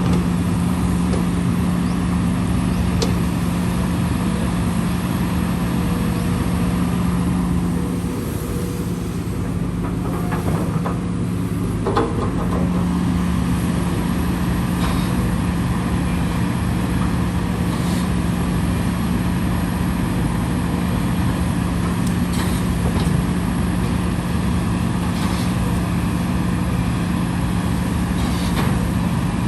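Heavy earthmoving machine's engine running steadily with a constant low hum, dredging a canal. A few faint knocks or clanks come through now and then.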